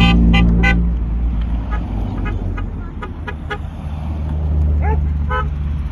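Classic car engines running with a steady low rumble, while horns give a series of short toots, several in quick succession near the start and more through the middle.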